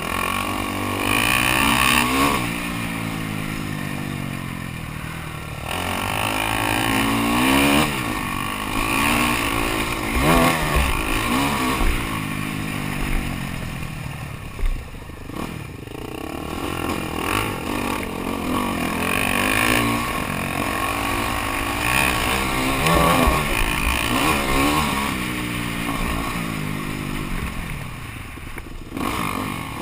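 Motocross bike engines revving, the pitch rising and dropping again and again as the bikes accelerate, shift and back off around the dirt track.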